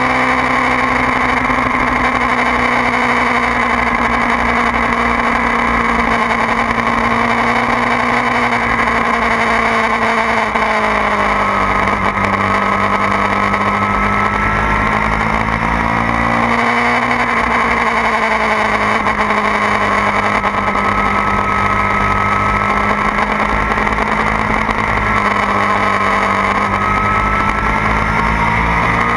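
2009 Kawasaki ZX-6R's inline-four engine running hard at track speed, with wind rushing past. The engine pitch drops about eleven seconds in, climbs again a little past halfway, eases down, and rises once more at the very end.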